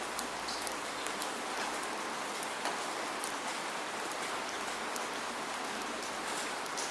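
Steady rain falling, a dense even hiss with many small drop ticks and no thunder.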